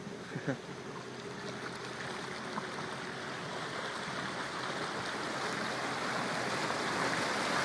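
Flood water rushing and sloshing as a truck drives through a flooded street, pushing a wake; the wash grows steadily louder.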